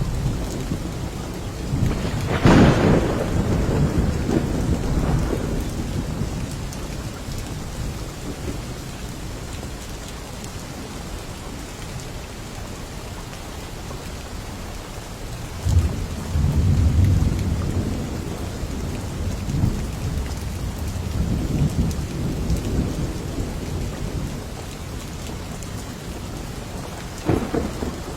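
Steady heavy rain falling, with thunder: a loud crack about two and a half seconds in that rolls away over several seconds, a low rumble past the middle, and another short crack near the end.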